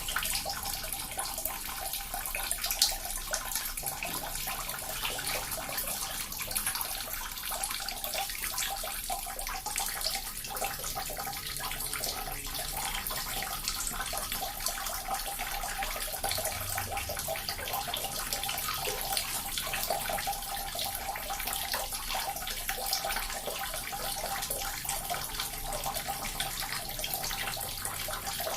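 Small water fountain running steadily: continuous trickling and splashing of falling water, with a light patter of drops and no pauses.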